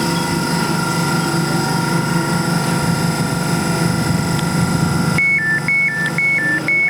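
Elizabeth line Class 345 train running with a steady hum and whine. About five seconds in the running noise drops away and the door warning starts: a two-tone beeping, high and low in turn, about two beeps a second.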